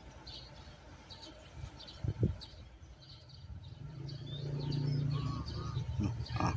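Small birds chirping repeatedly in short high calls. A brief low thump comes about two seconds in, and a low steady hum builds in the second half.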